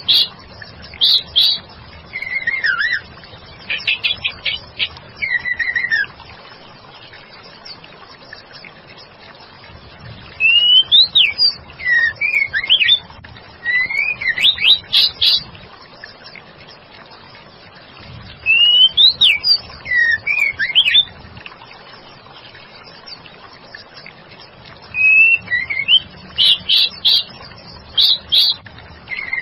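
Female white-rumped shama calling in bouts of short, quick whistled notes and sweeping chirps, each bout a few seconds long with pauses of a few seconds between.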